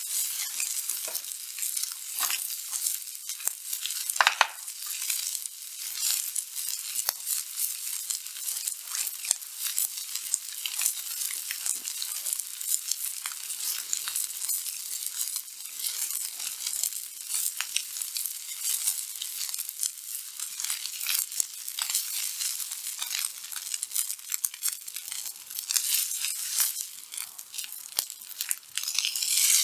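Wagyu steak sizzling on a thick black-skin iron griddle plate over a wood fire: a dense, continuous crackle of spitting fat and juices. A brief louder sound stands out about four seconds in.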